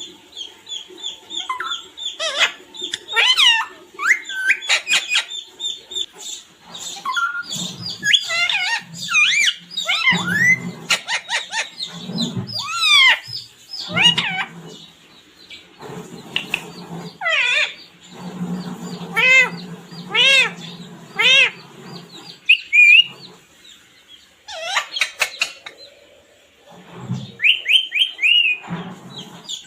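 Pet parrot chirping and calling: a long series of short pitched calls and quick chirps, some sweeping up or down in pitch, broken by brief pauses.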